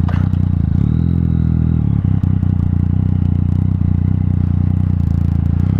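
Yamaha MT-09's three-cylinder engine, fitted with an Akrapovic titanium exhaust, running steadily at low revs. The revs lift briefly about a second in, and a few light clicks follow.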